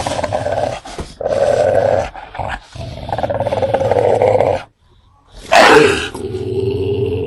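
Fierce dogs growling in long stretches broken by short gaps. About five and a half seconds in comes a sudden louder roar that falls in pitch, running on into a steady held growl.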